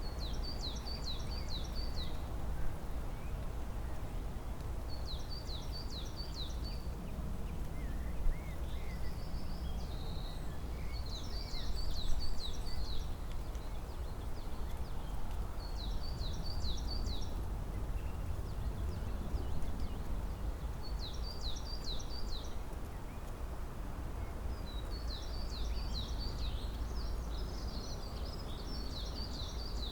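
A small songbird singing the same short phrase of about five quick, falling high notes, repeated about every five seconds, with a few fainter calls from other birds between phrases. A steady low rumble runs underneath.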